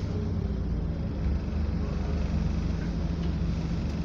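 Scania double-decker bus's diesel engine running steadily under way, a low drone with no sharp changes.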